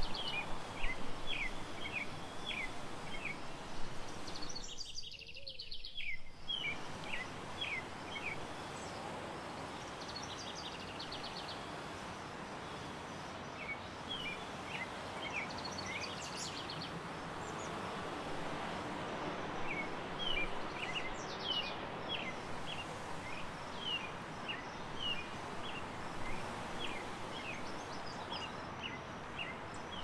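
Small birds chirping in short, repeated high notes, with a few quick chattering trills, over a steady background of outdoor noise.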